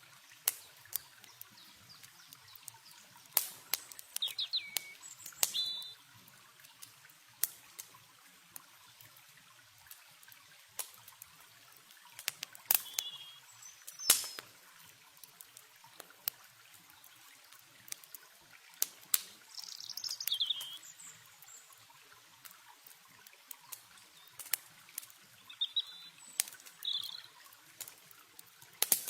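Campfire crackling with irregular sharp pops, over a soft hiss of flowing water. Birds give short chirps now and then, in clusters about 4–5 seconds in, at about 12 and 20 seconds, and near the end.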